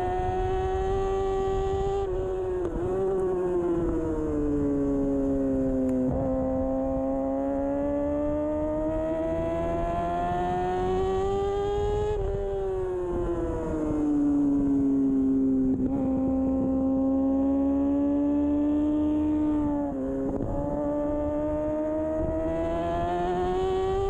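2013 Kawasaki Ninja 636's inline-four engine running hard at racing speed, its pitch climbing steadily and then dropping sharply about five times as the rider works through the gears and corners.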